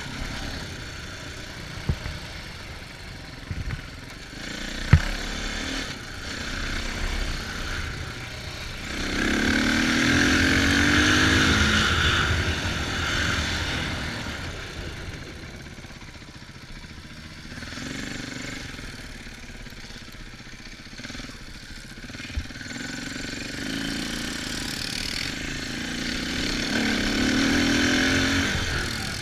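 Dirt bike engine revving up and easing off again and again while riding a trail, loudest about ten seconds in and again near the end. A few sharp knocks sound in the first five seconds.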